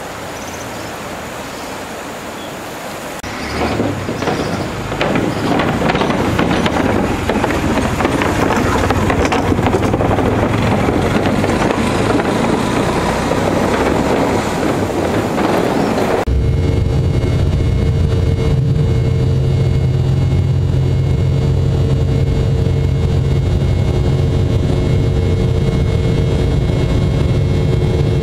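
Motor vehicle on the move: a steady rushing hiss grows louder about three seconds in, with wind noise on the microphone. About sixteen seconds in it cuts abruptly to a steady low engine drone.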